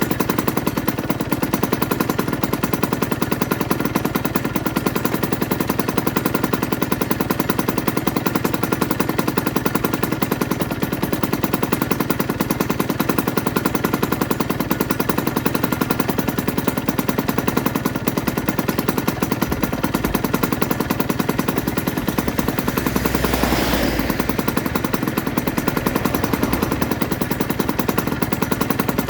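Aprilia RS125's single-cylinder two-stroke engine idling steadily with a fast, even popping exhaust beat, with one short swell about three-quarters of the way through.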